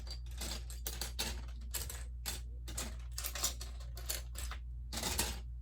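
Loose plastic Lego bricks clicking and clattering continuously as both hands sift and spread through a pile of pieces, searching for one part.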